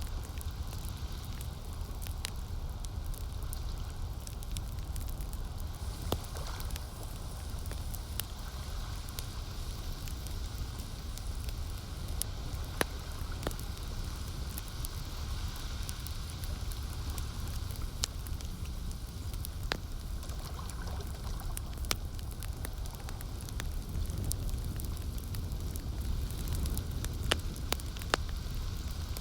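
Campfire crackling, with sharp pops scattered throughout, over a steady low rush. Lake water lapping softly underneath.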